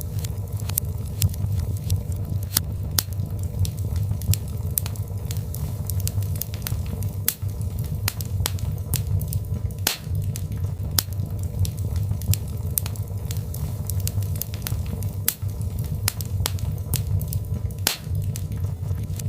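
Birchwood fire crackling in a fireplace: frequent sharp pops and snaps over a steady low rumble of the flames.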